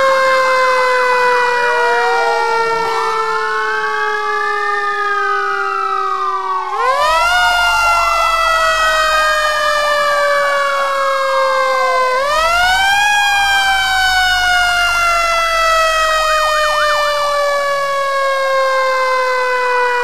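Several fire engine sirens sounding together. The main one jumps up quickly and then falls slowly in pitch, starting over about every five to six seconds, while a second swells up and down in slower arcs and a rapid warble comes and goes. A low rumble joins about seven seconds in.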